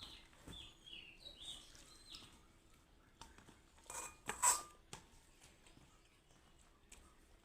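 Tableware clinking during a meal, with a few sharp clinks about four seconds in as the loudest sounds. Birds chirp faintly in the first two seconds.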